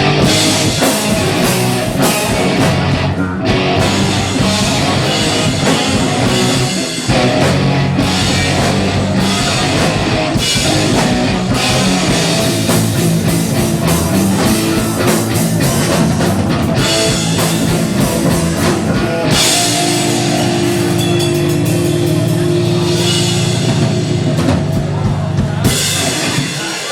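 A rock band playing live, with drum kit and distorted electric guitars; near the end a held low chord rings out as the song closes.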